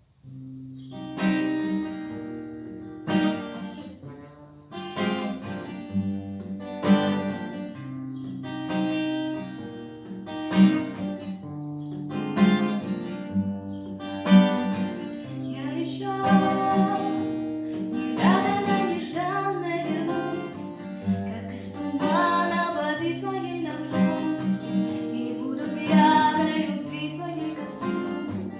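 An acoustic guitar plays the introduction of a Russian bard song in a steady chord rhythm, and a young woman's singing voice joins in about two-thirds of the way through.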